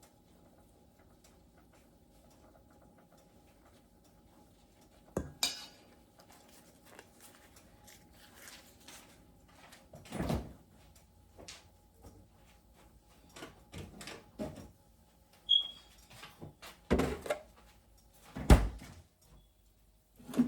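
Kitchen handling sounds: scattered knocks, clicks and clatter of dishes and utensils and the bump of a cupboard or door, spread over quiet stretches with a faint steady hum. A brief high squeak comes about fifteen seconds in.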